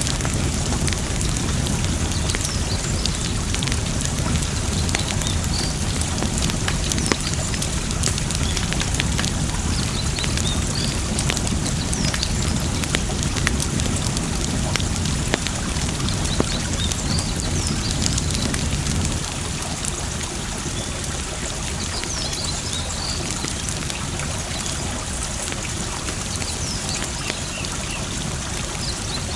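Wood fire crackling, with many sharp little snaps, over the steady rush of running water. The deeper part of the water sound drops away about two-thirds of the way through.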